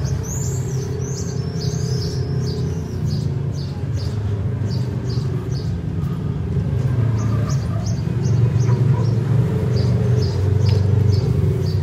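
Small birds chirping repeatedly, in short high arched notes that come thickest near the start and again in the second half, over a steady low rumble.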